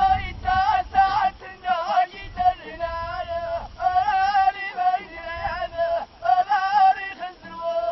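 Ahidous singing: voices chanting a high, wavering melody in short repeated phrases.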